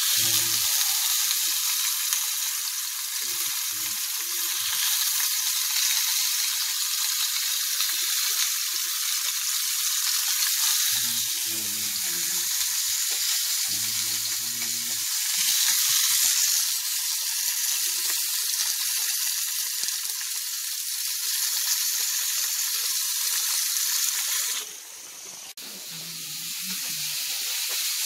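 Food frying with a steady, high hissing sizzle. About 25 seconds in, the sizzle briefly drops off, then builds back up.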